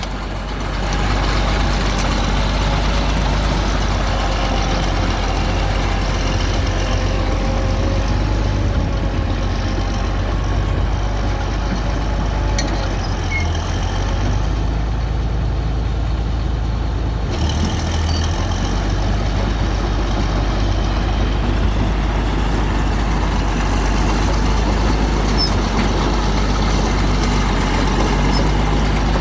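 Bulldozer's diesel engine running steadily, a continuous low drone with a wavering whine over it through the first half.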